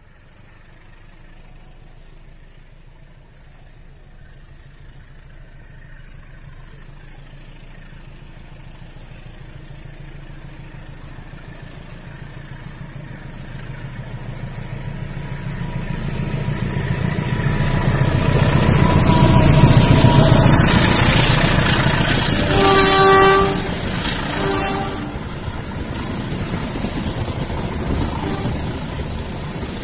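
A locomotive-hauled passenger train approaches, its rumble growing steadily louder until it passes close by. As it draws level the horn sounds twice, a longer blast and then a short one, and the carriages roll past with a steady rumble.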